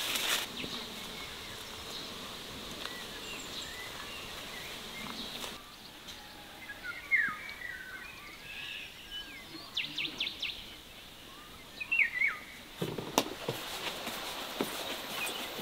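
Birds chirping in short calls, bunched around seven seconds in and again around twelve seconds in, over a faint steady hiss. A few sharp clicks come near ten seconds in, and a brief rustling burst just after thirteen seconds.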